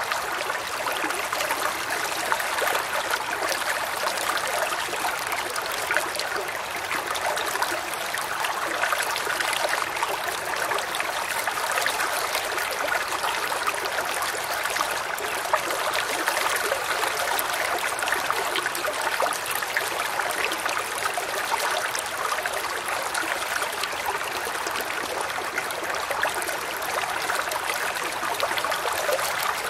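Woodland creek running over stones, a steady babble and trickle of water with small splashes and bubbles.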